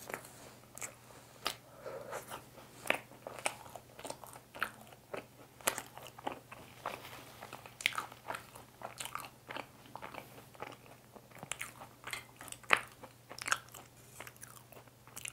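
A person chewing and biting a fresh-cream mocha bun, a soft bun with a crisp coffee topping and a whipped-cream filling. The mouth sounds are wet and sticky, broken by many irregular sharp crackly clicks.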